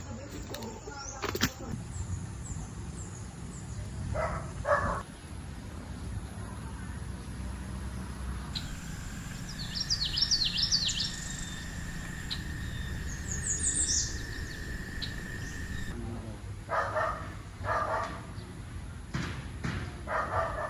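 Birds chirping outdoors in a few short runs of quick high notes, over a steady low rumble.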